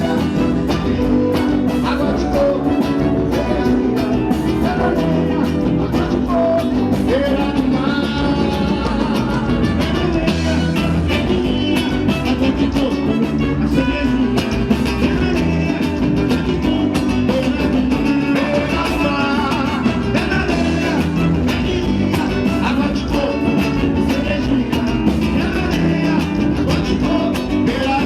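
Live band music with guitar and a steady beat, with some singing, in a Brazilian popular style.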